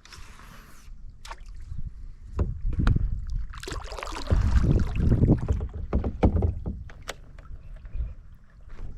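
Knocks, clicks and rustling on a kayak as a hooked fish is fought from it. There is a short hiss at the start and a busier stretch of bumping about halfway through.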